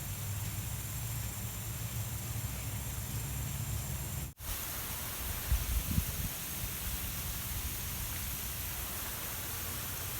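Steady outdoor background noise: an even hiss over a low rumble, with no bird calls. It cuts out for an instant about four seconds in, and a few dull low thumps follow a second or so later.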